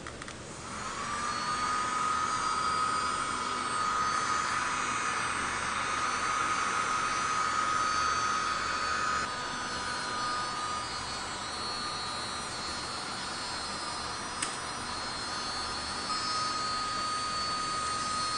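Small portable USB vacuum cleaner's motor running, a steady high whine over a hiss. It spins up about a second in, drops somewhat in level about halfway through, gives a single click about three-quarters of the way through, and the whine grows stronger again near the end.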